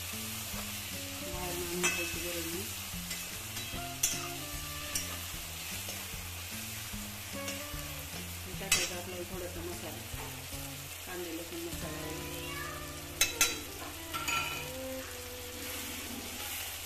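Oil sizzling steadily in a kadhai as a spatula stirs the frying onion masala, with a few sharp knocks of the spatula against the pan, two of them close together about thirteen seconds in.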